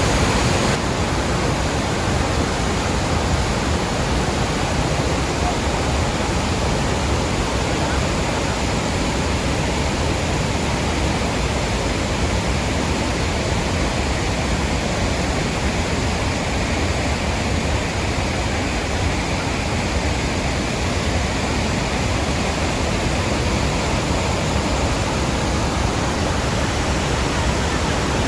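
Waterfall rushing: a steady, even sound of heavy falling water with no breaks.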